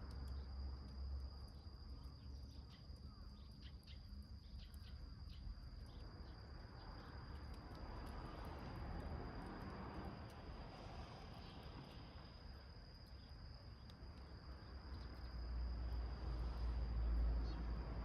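A small wood fire burning in a tin can, with scattered crackles clustered in the first few seconds, over a steady high-pitched cricket trill and a low rumble.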